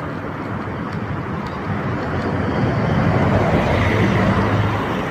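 Motor vehicle and road noise with a low hum, growing louder over the first few seconds, peaking about four seconds in and easing near the end.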